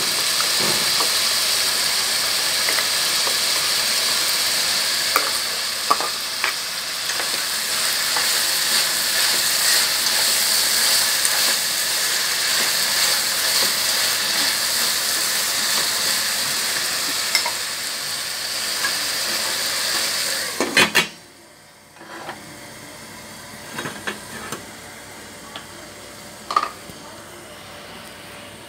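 Diced vegetables sizzling in oil in a stainless steel pot, stirred with a spatula that now and then scrapes and knocks on the pan. About 21 seconds in, a clatter as the pot is covered, and the sizzling drops to a muffled hiss with a few light knocks.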